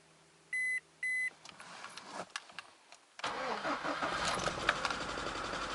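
Two short beeps from the car, then a few seconds later the freshly rebuilt VAZ 124 16-valve four-cylinder engine cranks and catches, running steadily with a busy, uneven note; the check-engine light is flashing and the owner suspects a coil or spark plug leaving one cylinder dead.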